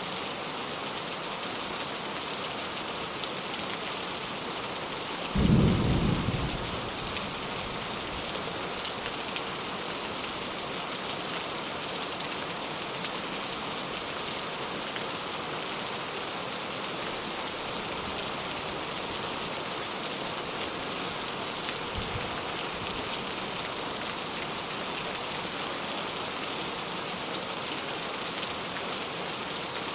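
Steady rain falling. About five seconds in comes a short, loud, low rumble of thunder that fades within a second or so.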